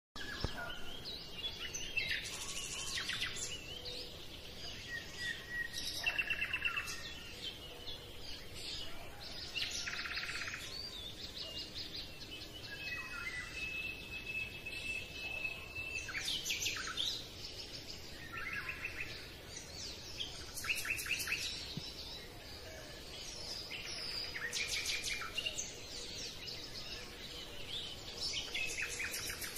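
Birds singing: repeated bursts of rapid chirping trills, with a long steady whistled note about halfway through, over a faint hiss.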